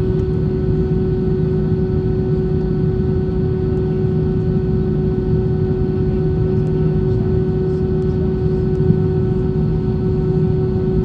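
Airbus A320 cabin noise: a steady engine and airflow drone with a constant hum running through it.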